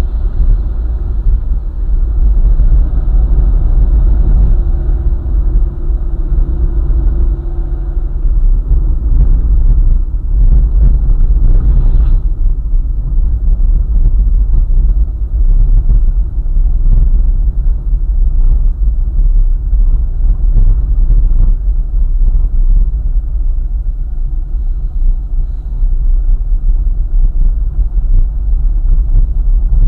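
Car driving along a highway: a steady, loud low rumble of road and engine noise, with a higher drone joining for a few seconds near the start.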